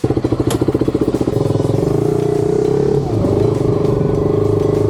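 Motorcycle engine running, coming in suddenly with a rapid pulsing beat that settles into a steady drone.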